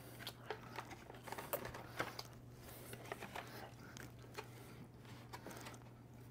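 A man chewing a mouthful of chocolate-covered donut holes close to the microphone, with irregular soft clicks and smacks of the mouth, over a steady low hum.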